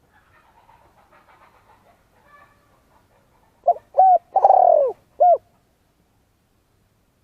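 Spotted dove cooing a phrase of four notes past the middle: two short coos, a longer coo falling in pitch, then a short final coo.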